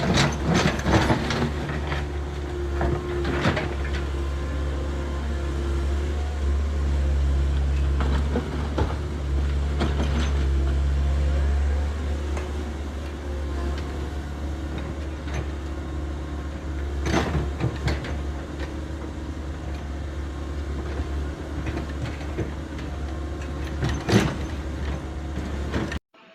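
Heavy truck engine running with a steady low drone, strained on a climb it cannot make, with a few sharp knocks along the way.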